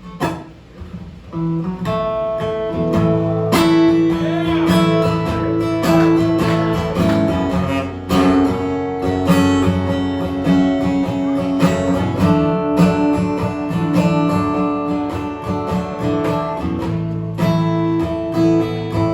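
Acoustic guitar played live as a song's instrumental intro, with strummed chords ringing out. It starts up after a brief lull, about a second and a half in.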